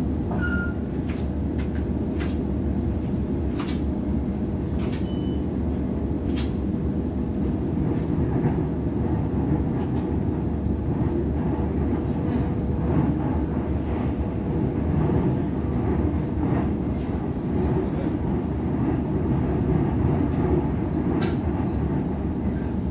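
Sydney Trains Waratah double-deck electric train running at speed, heard from inside the carriage: a steady rumble of wheels on rail with a constant hum and occasional light clicks.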